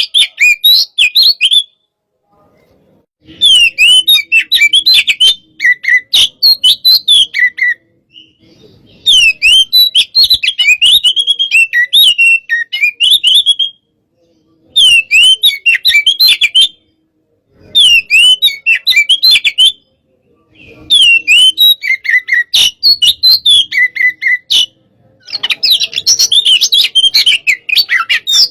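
Oriental magpie-robin (kacer) singing in loud bouts of rapid, varied whistles and chattering trills, each bout a few seconds long with short pauses between. This is the fierce, fired-up 'panas' (hot) style of song that keepers use to provoke and train other kacer.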